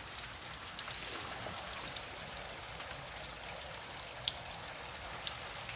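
Freezing rain falling in an ice storm: a steady hiss with many small scattered ticks of drops and ice striking surfaces.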